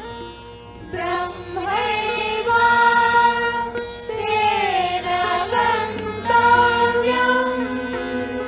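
Indian classical devotional singing over a steady drone: a voice enters about a second in with gliding, wavering held notes and short pauses.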